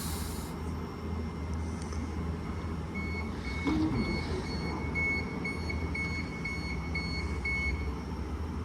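Low, steady hum of a Mariyung D set electric train standing at the platform. About three seconds in, a run of high electronic beeps starts, roughly two and a half a second, and stops a second before the end.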